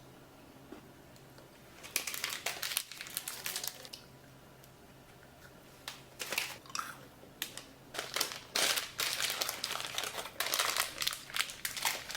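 A chocolate candy wrapper being crinkled as it is handled and unwrapped, in bursts of crackly rustling that start about two seconds in, pause briefly, then run on densely.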